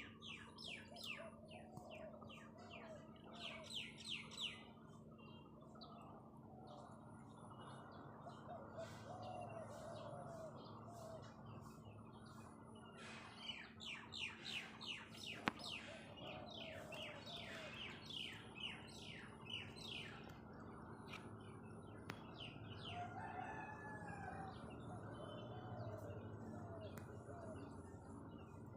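Birds chirping in quick runs of short notes, with softer lower calls between them and a faint steady hum underneath.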